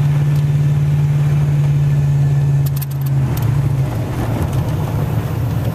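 Pickup truck's engine and road noise droning steadily inside the cab while driving. The low hum shifts down and eases slightly about halfway through, where a few quick clicks sound.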